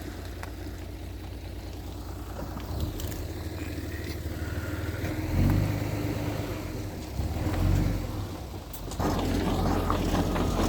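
Heavy machinery engine running with a low rumble. It swells twice in the middle and gets louder about nine seconds in.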